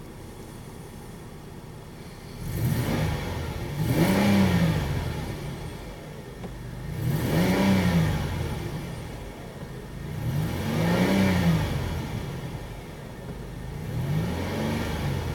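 2008 Chevy Uplander 3.5 L V6 engine starting up about two seconds in, then revved up and let fall back to idle four times, about every three and a half seconds.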